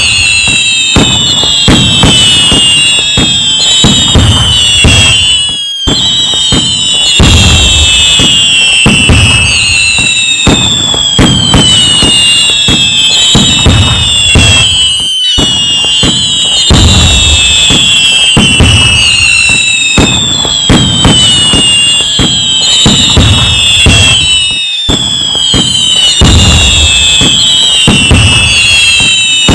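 Fireworks going off continuously and loudly: dense bangs and crackling, overlaid with many falling whistles from whistling shells. There are brief breaks about every nine and a half seconds.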